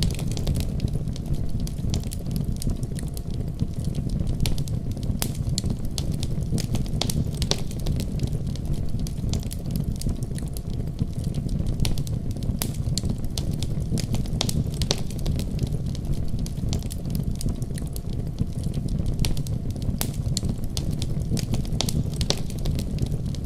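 Wood fire crackling with frequent, irregular sharp pops and snaps, over a steady deep rumble of a winter storm.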